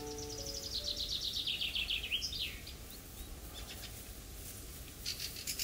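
Songbird singing: a rapid trill of chirps that falls in pitch over about two and a half seconds and ends in a quick flourish, then a second rapid trill of high, evenly repeated chirps begins near the end.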